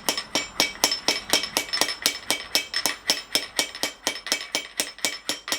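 Rapid, even hammer blows on a piece of steel hinge flat stock, about five a second, each with a bright metallic ring. The smith is shaping the piece over a block to round it up.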